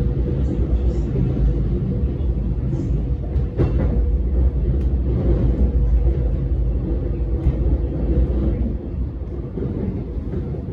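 Metro X'Trapolis electric train running along the track: a loud, steady low rumble with a constant hum and a sharp knock about four seconds in. The rumble eases somewhat near the end.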